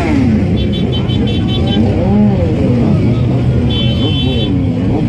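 Car and motorcycle engines running in a slow procession, with raised voices over them and two quick runs of short high-pitched beeps.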